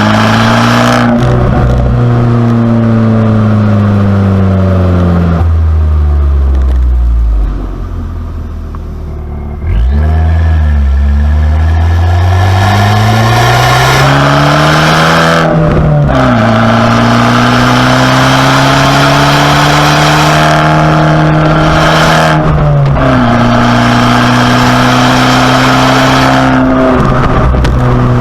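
2019 Abarth 595C Competizione's turbocharged 1.4-litre four-cylinder engine through its Record Monza exhaust, driven through the gears. The engine note falls as the car slows, goes quieter for about two seconds, then comes in hard with a sudden jump in loudness and climbs in pitch, with short breaks at three gear changes in the second half.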